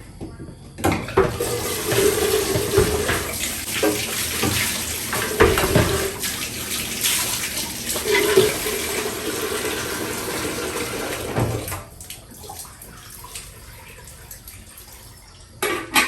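Water running and splashing, with a few knocks, stopping about twelve seconds in; a short sharp knock near the end.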